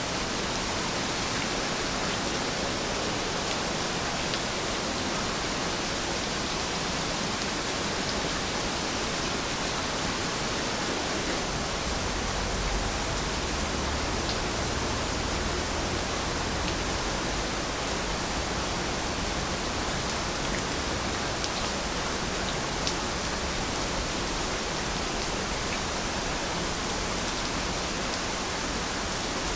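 Steady rain falling, an even hiss with a few separate drop ticks. A low rumble swells about twelve seconds in and eases off a few seconds later.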